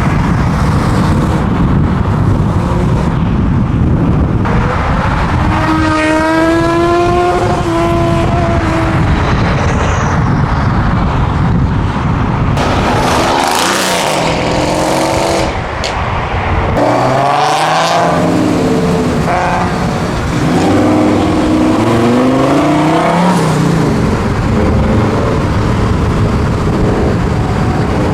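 Car engines accelerating, rising in pitch several times as they rev up through the gears, over steady loud road noise.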